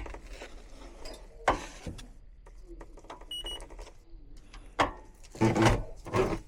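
Knocks and handling noises from tools and panels being worked. A single short, high electronic beep sounds about three and a half seconds in.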